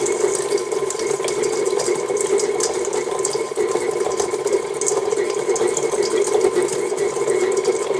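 KitchenAid stand mixer running steadily, its motor humming as it mixes vanilla ice cream with mini Oreos in the bowl.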